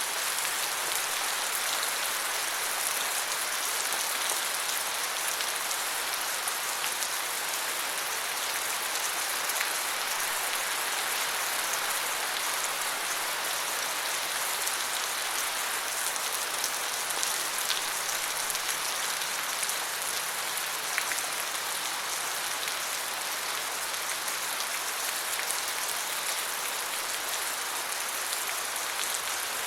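Steady rain falling on forest leaves: a dense, even hiss of countless drops, with scattered louder drip ticks.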